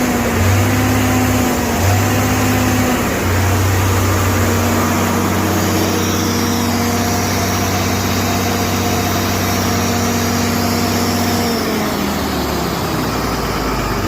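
Allis-Chalmers 3500 426-cubic-inch engine running on a test bench, its note dipping briefly three times in the first few seconds, then holding steady. About twelve seconds in, the revs fall away.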